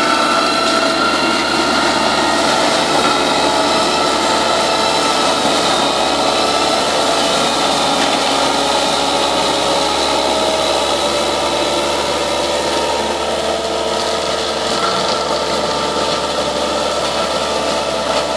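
Cat 299C compact track loader's diesel engine running steadily with the HM315B brush mulcher head spinning, a loud continuous machine noise with a whine in it.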